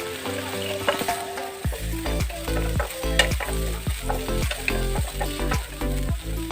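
Eggs sizzling as they fry in an oiled pan, with light clicks of stirring, under background music whose melody plays throughout and a bass beat of about two thumps a second comes in a little under two seconds in.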